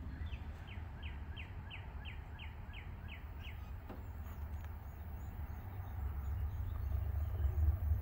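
A songbird sings a run of about a dozen down-slurred notes, roughly three a second, for the first three and a half seconds, followed by fainter, higher chirps. Underneath is a steady low rumble that grows louder over the last two seconds.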